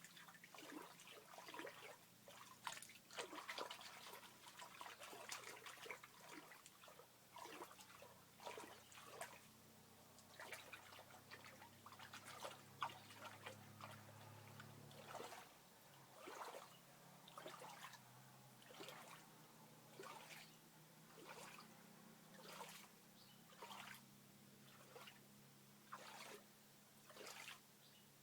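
Faint water trickling and dripping in short splashes, irregular at first, then falling into an even beat a little slower than once a second about halfway through.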